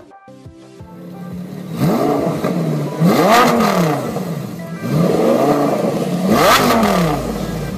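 Lamborghini Sesto Elemento's 5.2 V10 engine idling, then revved up and let fall back twice, each rev taking about two seconds to rise and drop in pitch.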